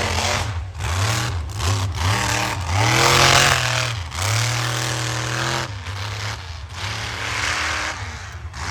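Monster truck engine revving hard, its pitch rising and falling with the throttle. It is loudest about three seconds in, then dips and climbs again.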